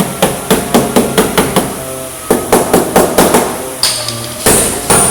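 A hammer striking a car's sheet-metal body panel in quick runs, about seven or eight blows each, at roughly six or seven a second. A longer, noisier burst follows near the end.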